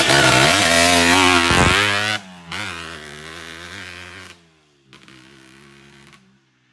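Motorcycle engine revving loudly, its pitch wavering up and down, then dropping abruptly about two seconds in and running on at a much lower level in two shorter stretches before fading out near the end.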